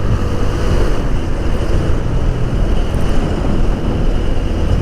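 Wind rumbling over the microphone of a GoPro action camera on a moving motorcycle, with the engine running steadily underneath.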